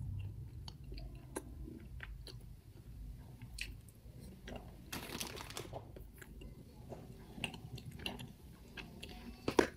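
A person chewing and biting soft vanilla cake, faint, with small mouth clicks and a couple of brief louder noises, one about five seconds in and one near the end.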